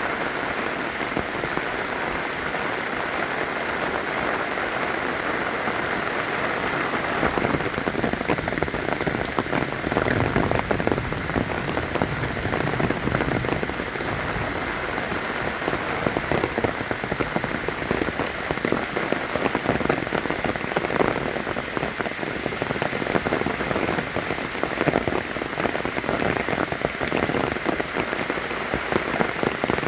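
Steady rain falling, a dense patter of many drops striking close by, growing somewhat heavier about a quarter of the way in.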